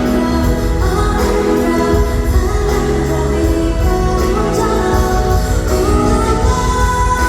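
Live concert performance of a song: a female singer's voice over instrumental accompaniment, running steadily and loudly.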